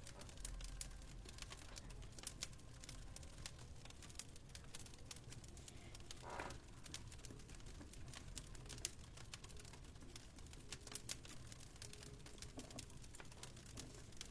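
Wood fire crackling in a fireplace: quiet, irregular sharp pops and snaps over a low steady rumble.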